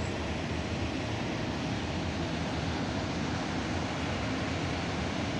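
Autorack freight cars of a CSX train rolling past close by: a steady rumble of steel wheels on rail, even and unbroken.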